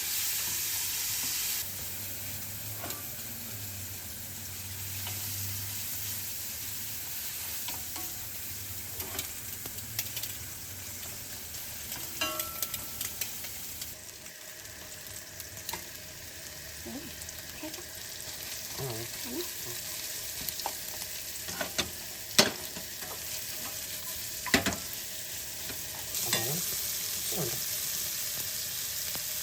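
Food sizzling as it fries in a pan while being stirred, with scattered sharp clicks of the utensil against the pan; the two loudest knocks come a little past two-thirds of the way through.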